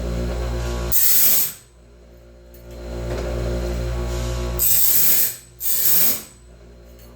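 Homemade bandsaw blade sharpener running: a steady motor hum broken three times by short, loud bursts of grinding as the wheel works the band's teeth.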